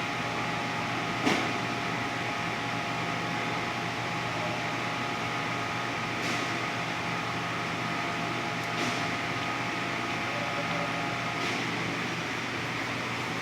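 Steady mechanical hum, like a fan or air conditioner running, with a few faint clicks, the loudest about a second in.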